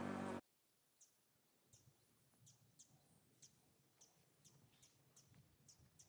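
A steady droning sound with many tones cuts off abruptly in the first half second. Then faint, short, high bird chirps, each a quick downward sweep, come a few times a second.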